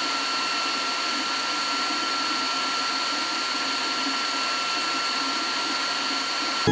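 Cooling fans of a Flashforge Adventurer 5M 3D printer running steadily during its heated bed calibration: a pretty loud, even whir with a few thin high whines over it.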